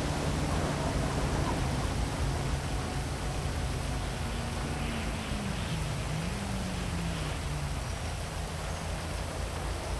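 Heavy rain falling over a city, a steady hiss. Under it runs a low engine hum of traffic whose pitch dips and rises about halfway through.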